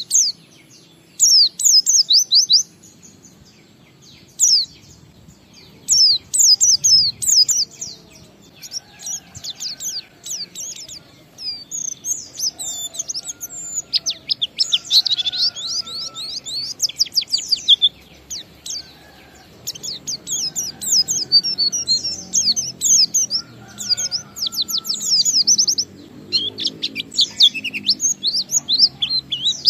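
White-eye (pleci) singing a rapid, high twittering song in quick bursts of many steep notes, broken by short pauses: the long 'ngalas' song used to draw other kept white-eyes into song.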